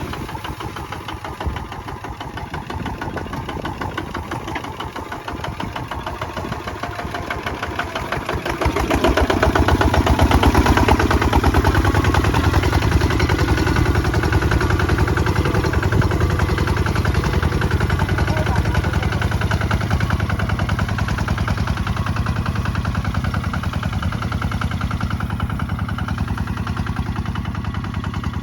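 Kubota ZT155 single-cylinder diesel engine running with a rapid, even chug, growing louder about nine seconds in as it takes on more load or revs, then holding steady.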